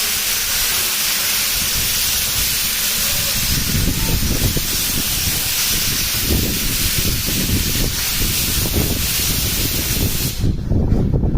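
A steam locomotive venting steam in a loud, steady hiss that cuts off suddenly near the end, with a low, uneven rumble joining after a few seconds.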